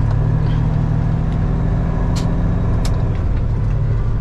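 Semi-truck diesel engine running steadily at low speed, a deep drone, with two short sharp ticks a little over two seconds in and just under a second apart.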